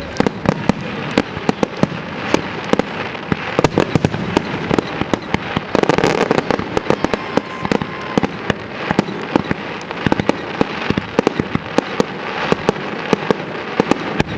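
Fireworks display: a dense, continuous run of bangs and crackles, many a second, with a louder, thicker stretch about six seconds in.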